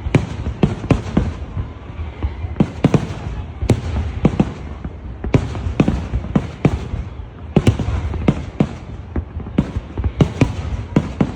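Fireworks display: a rapid, irregular volley of sharp bangs and cracks, several a second, over a continuous low rumble of further explosions.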